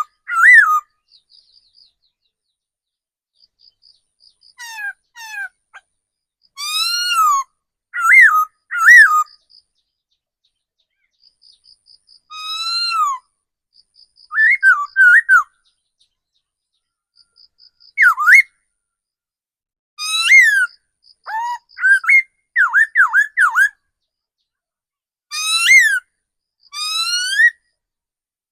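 Laughingthrush singing: loud, clear whistled phrases of swooping, looping notes, each burst lasting about a second, with pauses between, and faint short high notes in some of the gaps.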